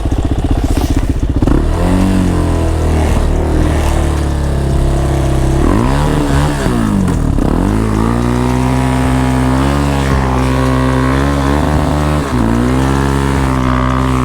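Suzuki LTZ400 ATV's single-cylinder engine revving under load as the stuck quad is ridden and pushed to get it out of the snow. The revs run rough at first, then hold, dipping and climbing again about six seconds in and once more near the end.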